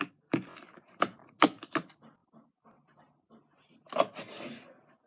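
Sticky, under-activated slime being kneaded by hand, giving a quick run of sharp pops and clicks in the first two seconds and a longer wet squish about four seconds in.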